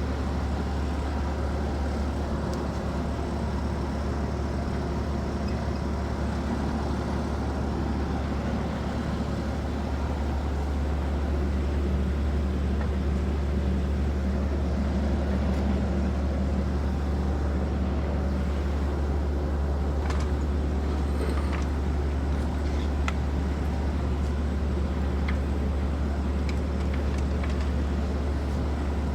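A steady low mechanical drone, with a few light clicks and taps in the second half.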